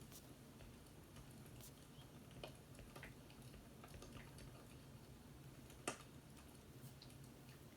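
Faint wood fire crackling: sparse scattered pops and clicks over a low hum, with one sharper pop about six seconds in.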